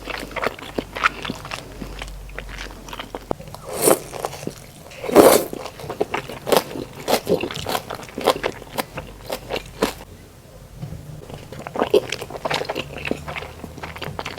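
Close-miked eating of savory tangyuan, meat-filled glutinous rice balls: a steady run of short wet mouth clicks and smacks from biting and chewing, with two louder, longer sounds about four and five seconds in.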